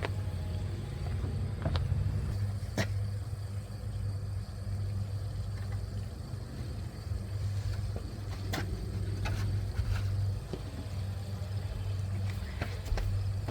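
A few light clicks and knocks as a truck's grille is handled and fitted onto the front end, over a steady low hum.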